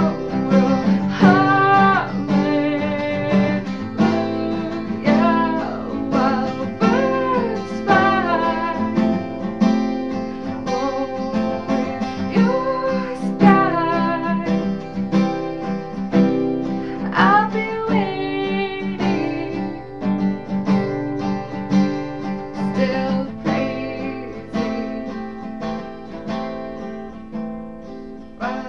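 A woman singing a slow worship song over strummed acoustic guitar. The voice drops out about two-thirds of the way through, leaving the guitar, which gets quieter toward the end.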